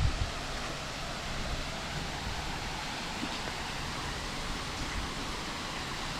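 Steady rush of falling water from a mountain waterfall, with a brief gust of wind on the microphone at the very start.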